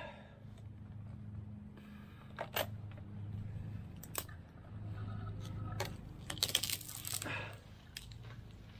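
Scattered light metallic clinks and rattles from tree-climbing gear, busiest about two-thirds of the way through, over a faint steady low hum.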